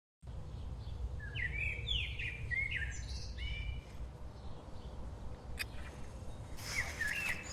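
Birds chirping outdoors: a run of short, quick up-and-down chirps starting about a second in, then a quieter stretch, and another burst of chirps near the end, over a steady low background rumble. A single faint click sounds midway.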